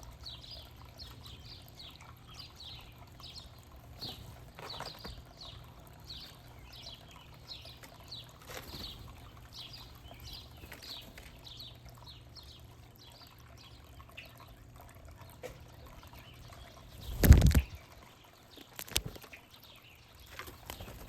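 A small bird chirping over and over in short, high, falling notes, about two a second, for the first fourteen seconds or so. A loud thump comes about seventeen seconds in, and a sharp click a second and a half later.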